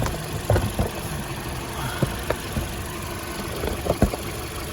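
Toyota Corolla engine idling steadily, running normally again after a misfiring ignition coil was replaced and the fault codes cleared. Several sharp clicks and knocks sound over it as a cover is fitted back in place.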